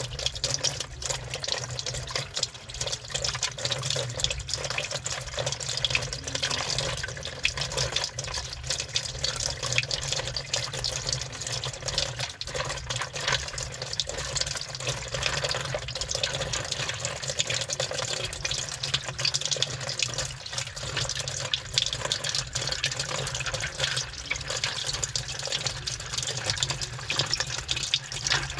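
Washing machine drum turning with water sloshing, heard from inside the drum, with a continuous patter of small clicks and clatters from the load of 104 keys tumbling against each other and the drum, over a steady low hum from the machine.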